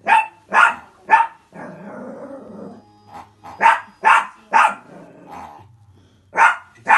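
Dog barking angrily in quick clusters of two or three, about eight sharp barks in all, with a rough growl between the first cluster and the next.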